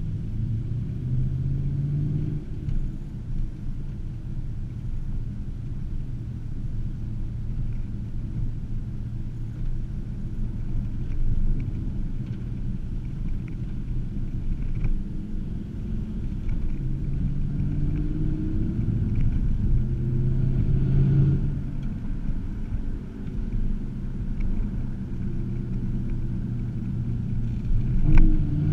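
2009 Cadillac CTS-V's supercharged 6.2-litre V8 breathing through Kooks catless headers and X-pipe into the stock mufflers, heard from inside the cabin while driving. A steady low exhaust drone that rises in pitch as the car accelerates, most clearly about two-thirds of the way through, then settles back.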